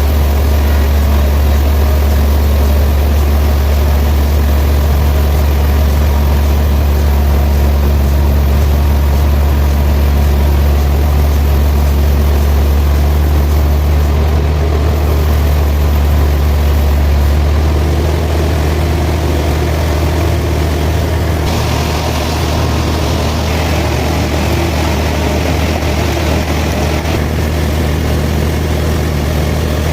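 Large sawmill machinery running with a steady, loud, deep hum. A little past the middle the hum eases slightly and a higher hiss joins in.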